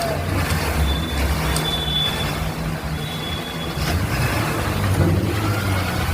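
A motor vehicle engine running with a steady low rumble, and a thin high tone sounding in three short stretches in the first half.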